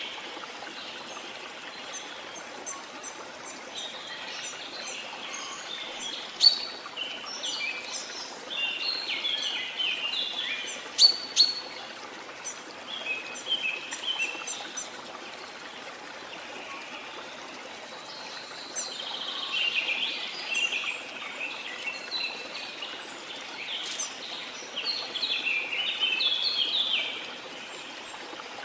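Tropical rainforest birds calling: many short chirps and quick stepped trills, with a few sharp loud notes, over a steady wash of falling water from a waterfall.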